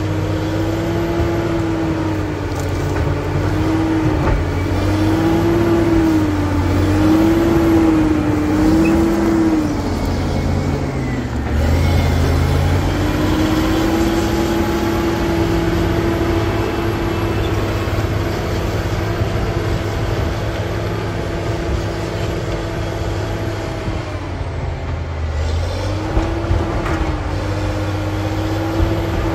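Caterpillar D7G bulldozer's six-cylinder diesel engine running hard, with a whine that wavers up and down above it. The engine note sags briefly about a third of the way in and again near the end, then picks back up.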